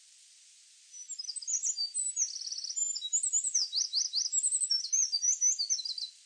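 A songbird singing a fast, varied song of high chirps, trills and quick down-slurred notes, starting about a second in and stopping abruptly near the end, over a steady hiss.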